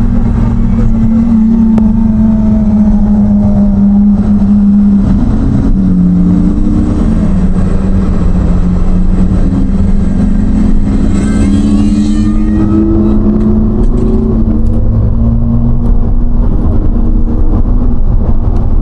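Lamborghini Aventador SVJ's V12 engine and exhaust running under way, with a steady engine note that shifts in pitch about five seconds in and climbs as it accelerates for a few seconds in the middle.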